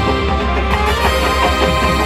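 Marching band playing loudly: sustained chords held over a steady low bass, with repeated note attacks.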